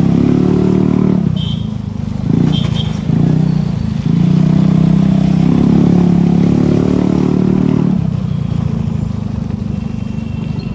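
Scooter engine running under way, picking up and easing off in short throttle bursts in the first few seconds, then pulling steadily before the throttle is let off about eight seconds in.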